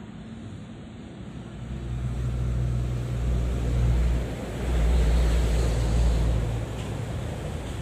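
Road vehicle engines passing close by at a level crossing, a low rumble that swells about a second and a half in, peaks twice with a brief dip between, and eases off near the end.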